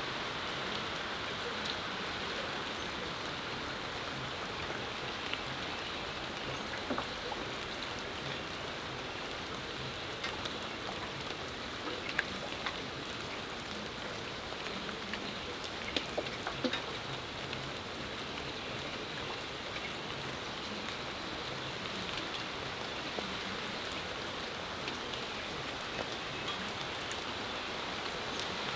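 Steady rain falling on surfaces, an even hiss with scattered sharper drip ticks, a few louder single drops standing out now and then.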